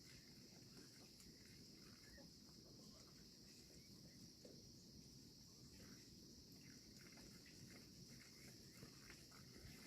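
Near silence: faint outdoor ambience with a steady high-pitched insect drone, a low rumble and a few soft ticks.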